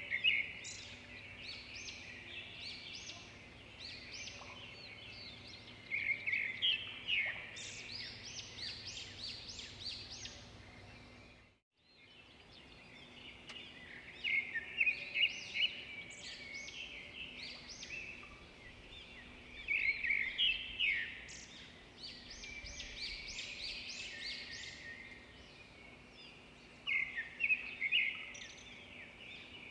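Edible-nest swiftlets twittering: a dense stream of short, high chirps, with louder flurries every six or seven seconds over a faint steady hum. The sound cuts out for a moment about twelve seconds in.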